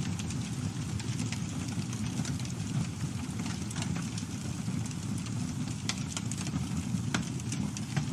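Campfire burning: a steady low rumble of flames with irregular crackles and pops from the burning wood.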